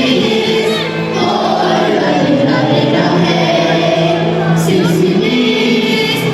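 Student choir singing together over instrumental music.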